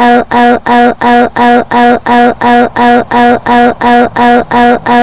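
A short voice-like tone repeated rapidly at a steady pitch, about three to four times a second, in a stuttering loop like a glitched sound effect.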